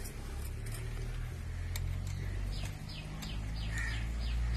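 A small bird chirping in the background: a quick run of short, falling chirps about two and a half seconds in, over a low steady hum, with a few sharp ticks.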